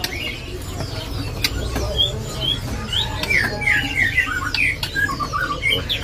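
Several caged birds calling at once: short chirps, squawks and slurred whistles, busiest from about two seconds in to near the end. A few sharp clicks are mixed in.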